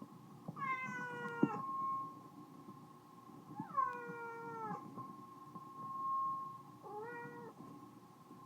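A cat meowing three times, each meow falling in pitch, the last one shortest. A steady high-pitched tone sounds underneath throughout.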